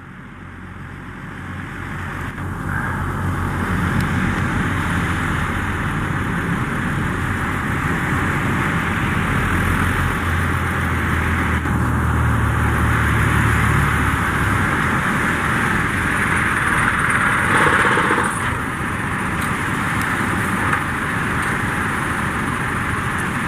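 Twin 100 hp Yamaha four-stroke outboards on a catamaran ski-boat launching off the beach: the engine note builds over the first few seconds, runs hard, then drops away about fifteen seconds in. A steady rushing noise runs underneath.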